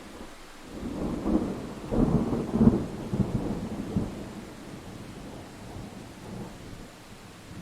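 A thunderclap over steady rain: a rumble builds about a second in, breaks into several loud cracks and booms, then rolls away into a fading low rumble.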